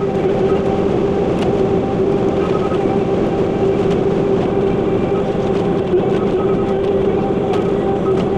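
Bobcat T86 compact track loader's diesel engine and hydraulics running steadily under load, with a steady whine over the engine noise and a few faint clicks.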